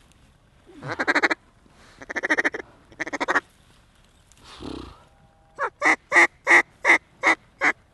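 Mallard hen quacks blown close by on a duck call: three raspy runs of notes, then a series of about eight evenly spaced loud quacks, the hail call used to turn a flock of mallards toward the decoys.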